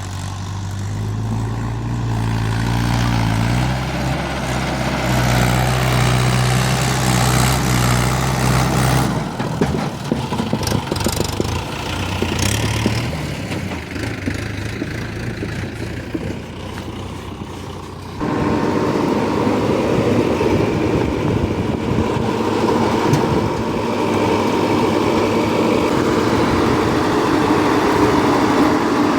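Heavy diesel engines of a backhoe loader and tractors running, first a steady low hum, then a rougher stretch. About two-thirds of the way through, the sound changes abruptly to a higher engine note.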